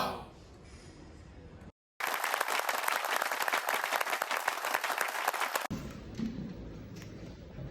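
A dense patter of many quick claps, like applause, starting abruptly about two seconds in and cutting off suddenly about three and a half seconds later, followed by faint background ambience.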